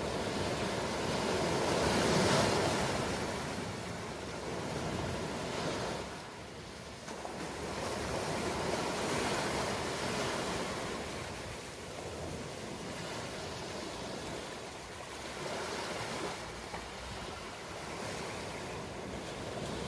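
Ocean waves breaking and washing up the shore: a continuous rush of surf that swells and fades every few seconds, the biggest surge about two seconds in.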